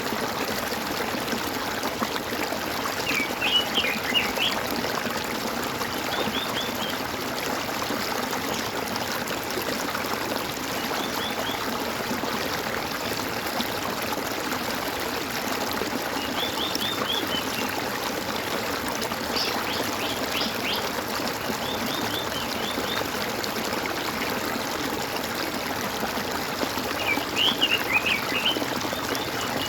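Water gurgling and trickling steadily, with songbirds singing short phrases of quick, falling high notes every few seconds; the loudest phrases come about four seconds in and near the end.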